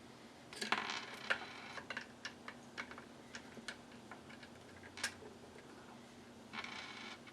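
Small sharp clicks and taps of a screwdriver and a tiny screw being worked on a ukulele tuning peg. The clicks come in a quick cluster about a second in, then one at a time, with a short rustle near the end.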